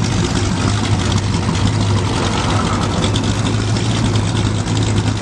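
Car engine running at a steady idle, a constant low hum, under the even noise of surrounding traffic.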